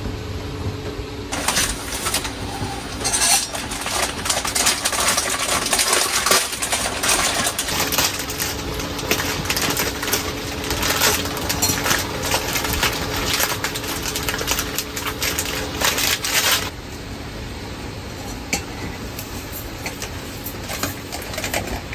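Pots, dishes and cutlery clinking and clattering in quick, irregular succession, stopping about three quarters of the way through, followed by a quieter steady background.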